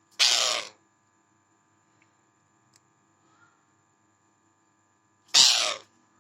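Angry pet parrot giving two short, loud, harsh calls about five seconds apart, one just after the start and one near the end.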